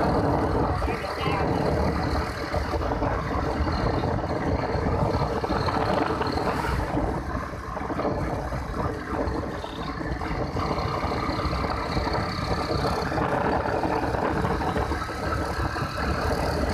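Motorcycle on the move: steady wind and road rush over the bike's engine running at a cruise.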